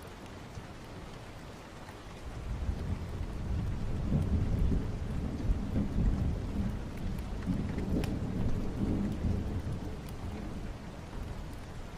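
Steady rain with a long roll of thunder that builds about two seconds in, rumbles loudest through the middle, and dies away near the end.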